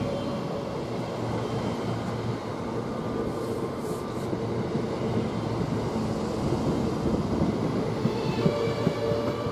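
A train moving through a station with a steady rumble. A whining drive tone fades out at the start and comes back near the end.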